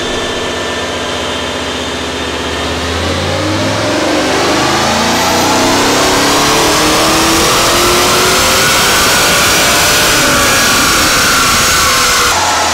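Chevrolet LS3 V8 in a 1969 Camaro making a full-throttle pull on a chassis dyno, its note climbing steadily in pitch over several seconds and then holding high. The sound drops off abruptly near the end.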